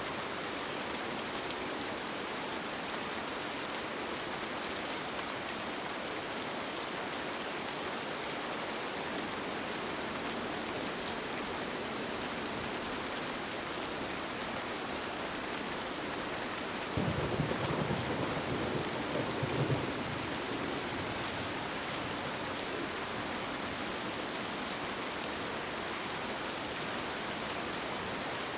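Steady rain falling on a tent. About two-thirds of the way through, a brief low rumble of thunder rises suddenly and lasts a few seconds.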